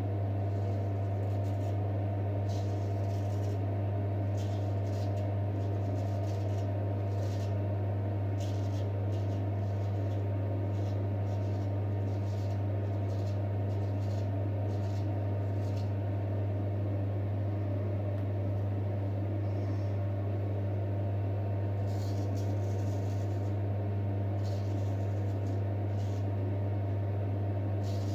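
Short, faint scraping strokes of a vintage J. Nowill & Sons straight razor cutting through a two-week-old beard, many strokes spaced irregularly, over a steady low hum that is the loudest sound throughout.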